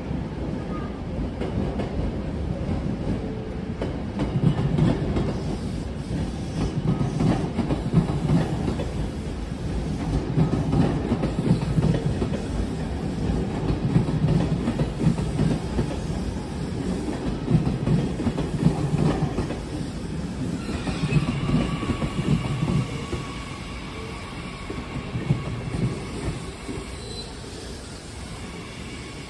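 JR Kyushu 885 series electric train rolling slowly out of the station past the listener, its wheels clattering in a regular rhythm over rail joints and points. A steady high whine joins in about two-thirds of the way through, and the sound fades near the end as the train moves away.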